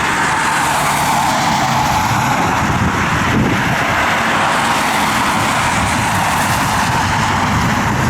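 Jet aircraft engines giving a steady rushing roar with a faint whine as a jet comes in to land.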